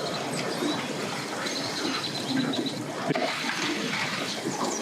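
Steady rushing noise with birds chirping over it, and a short high whistle-like call in the middle.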